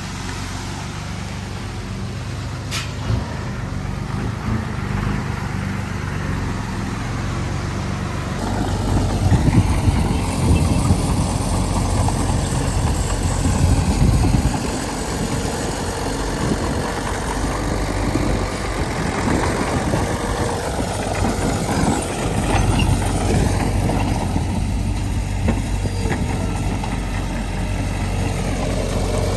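Heavy diesel engine running steadily, turning louder and rougher about eight seconds in, with a shift in engine pitch later on and one sharp click near the start.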